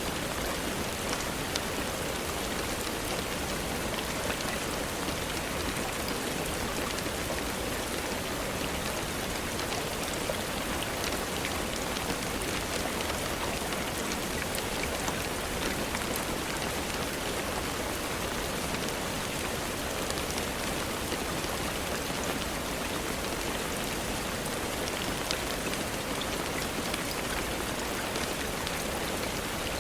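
Steady, even rainfall with a few scattered sharp ticks.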